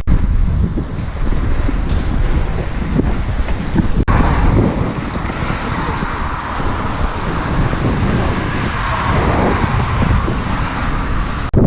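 Wind buffeting a head-mounted GoPro's microphone while riding, a dense rumble mixed with road and tyre noise. The sound breaks off about four seconds in and comes back with a brighter hiss, and breaks again near the end.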